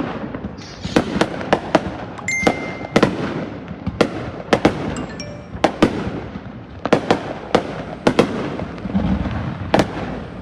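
New Year fireworks going off: many sharp bangs and cracks at irregular intervals, a few a second, over a continuous crackle and rumble of more distant bursts.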